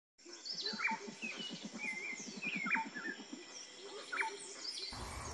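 Several birds calling: a sharp downward-sweeping call comes three times among higher chirps, over a fast low pulsing sound. Near the end a sudden louder sound cuts in.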